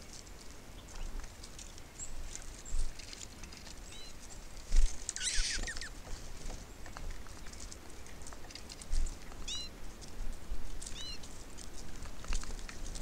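Small birds at a seed feeder: scattered ticks and taps of birds pecking and landing, with a few short chirps and a quick chattering run of falling notes about five seconds in.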